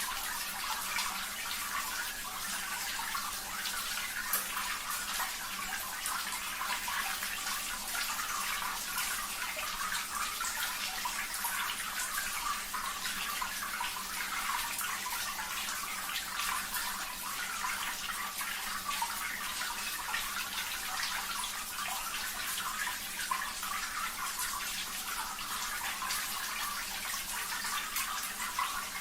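Running water splashing and trickling steadily, an unbroken water-sound backdrop.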